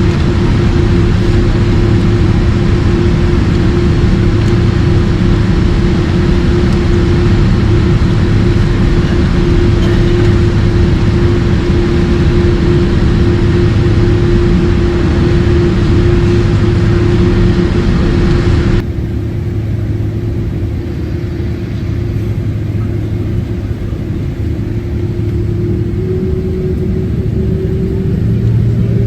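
Steady jet airliner noise from a Boeing 767-300 with General Electric CF6 engines: a rushing roar with a constant low hum and a steady tone above it. About two-thirds of the way through, the sound abruptly becomes duller and a little quieter. Near the end the tone rises slightly and the hum grows stronger.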